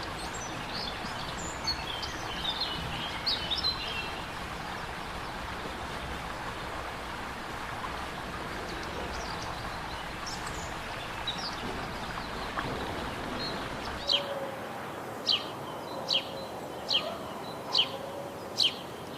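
Birds chirping over a steady background hiss: scattered high chirps at first, then, about three-quarters of the way in, one bird repeating a short, sharp falling call about once a second.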